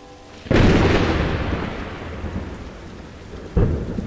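Thunder sound effect. A sudden loud thunderclap about half a second in rolls away slowly over a rain-like hiss, and a second clap strikes near the end.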